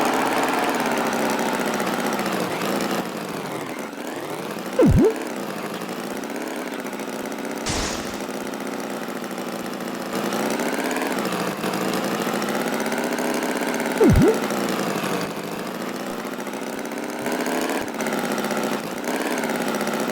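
Cartoon tractor engine sound effect running steadily, its pitch slowly wavering up and down. It is broken three times by a short, loud swooping sound, and there is a sharp knock about eight seconds in.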